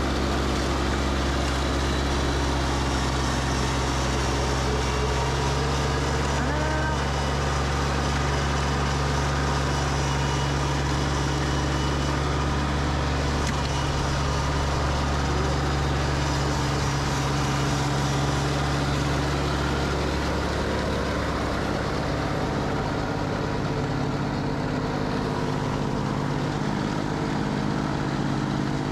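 Massey Ferguson GC2400 compact tractor's three-cylinder diesel running steadily at raised RPM, driving its front snowblower through heavy wet snow. The engine note shifts about 21 seconds in.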